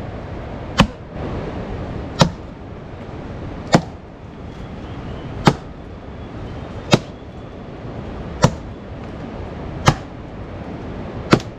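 Sharp, evenly spaced blows, eight of them at about one every second and a half, like a tool striking wood or another hard material.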